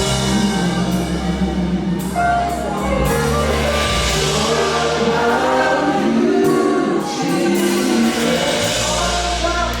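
Live worship music: a band playing sustained chords under a group of voices singing.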